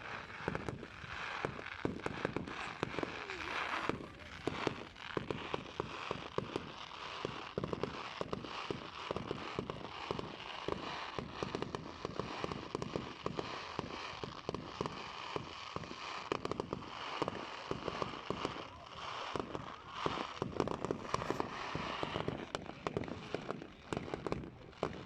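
Fireworks going off without a break: a dense run of pops and crackling bangs.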